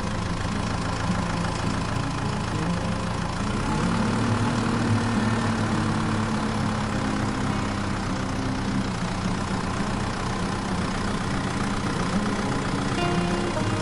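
Tractor engine idling steadily, its pitch lifting slightly about four seconds in.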